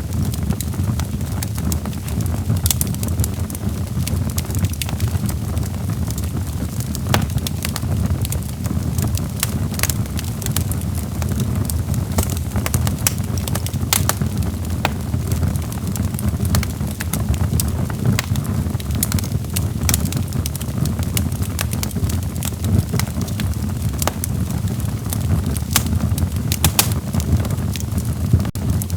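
Log fire burning in a fireplace: a steady low rumble of the flames with irregular sharp crackles and pops of the burning wood.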